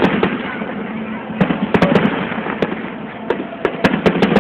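Aerial fireworks bursting in a rapid, irregular string of sharp bangs, bunched in volleys about a second and a half in and again near the end.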